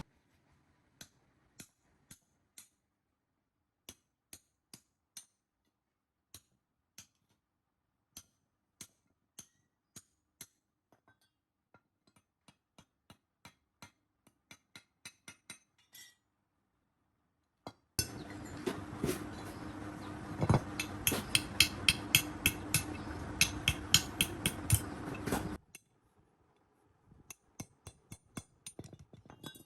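Light metallic taps and clinks of hand tools on metal, spaced out and quickening. About 18 seconds in comes a stretch of loud hammering, roughly three blows a second over a steady hum, lasting about seven seconds, then light taps resume.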